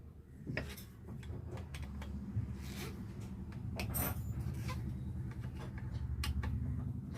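Scattered metal clicks and scrapes of hands and tools working on an alternator as it is put back together, over a steady low hum.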